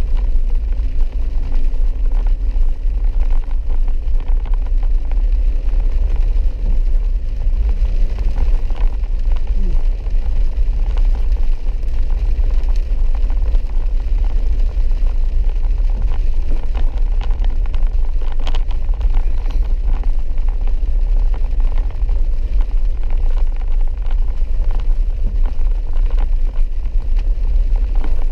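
A four-wheel-drive vehicle driving on a dirt road: a loud, steady low rumble of engine and road noise, with occasional faint ticks.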